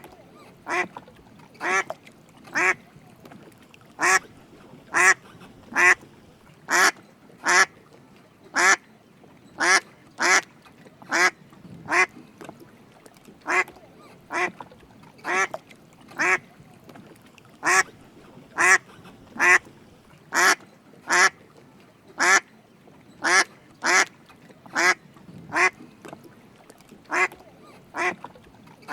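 Mallard drake calling: a long series of short, raspy quacks, roughly one a second, some in quick pairs.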